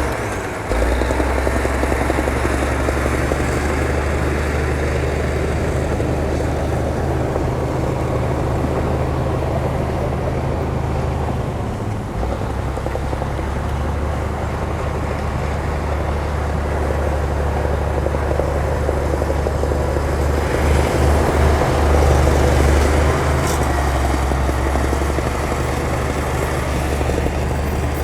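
Heavy earthmoving machine's diesel engine running steadily with a low drone, working harder and growing louder for a couple of seconds about two-thirds of the way through.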